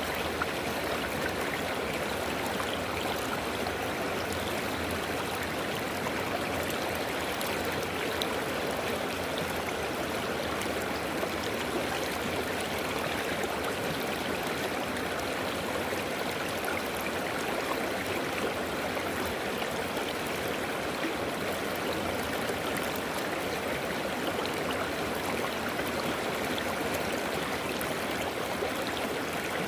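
River water flowing over rocks: a steady, even rushing with a light gurgle.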